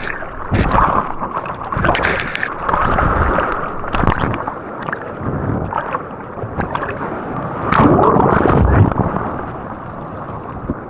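Seawater splashing and churning around a surfer's camera in the surf, with irregular sudden splashes and a louder rush of water about eight seconds in, settling down near the end.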